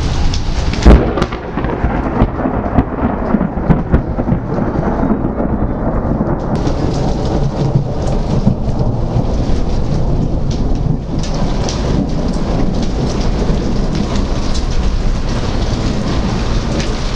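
Thunderstorm: rain falling steadily with thunder, a sharp loud thunderclap about a second in, then rumbling with several more loud peaks over the next few seconds.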